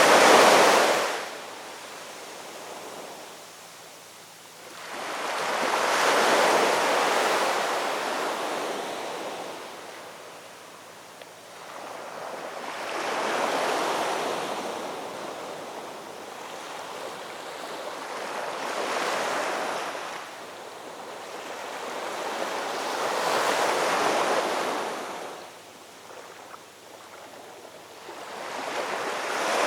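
Ocean surf: waves breaking and washing in about every five to six seconds, each surge swelling up and then fading away.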